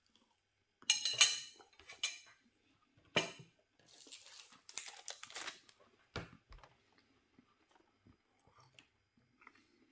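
Close chewing of a crispy breaded chicken and cauliflower goujon: loud crunches in the first few seconds, then quieter chewing, with a low thump about six seconds in.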